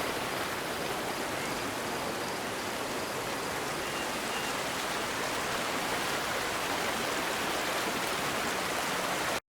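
Steady rushing of river water flowing over stones, cutting off abruptly near the end.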